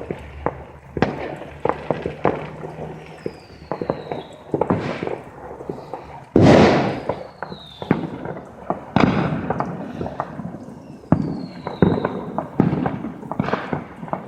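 Fireworks going off: a rapid scatter of cracks and bangs, with a big long bang about six seconds in and short falling whistles several times.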